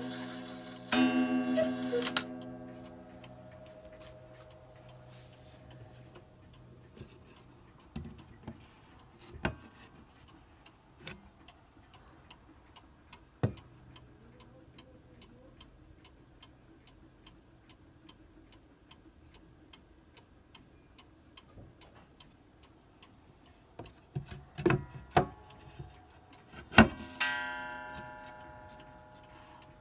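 Antique fusee cuckoo bracket clock: a last cuckoo call dies away about two seconds in, then the movement ticks steadily. Near the end come a few knocks and a louder ringing note that slowly fades.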